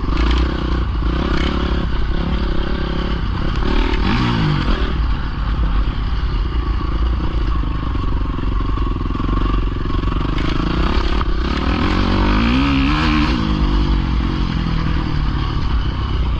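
Dirt bike engine running, its revs climbing and dropping about four seconds in and again near twelve to thirteen seconds, with some clatter.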